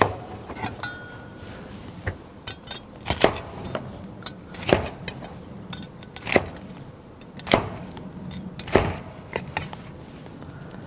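Meat cleaver chopping through cooked pork baby back ribs: a series of sharp knocks about every second and a half, with smaller clicks in between.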